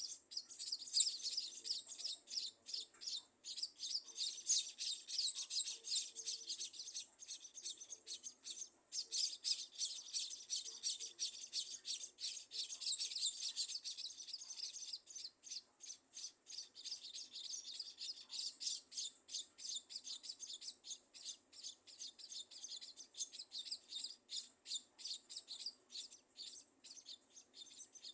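Small birds chirping rapidly and continuously in high, thin notes. The chirping is densest for the first half and thins into more separate chirps later.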